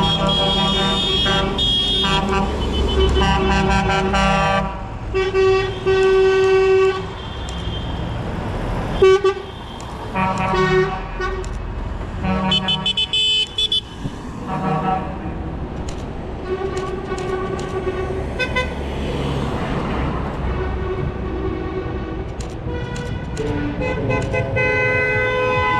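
Truck horns honking over and over in short and longer blasts, several horns at different pitches overlapping, with engines running underneath.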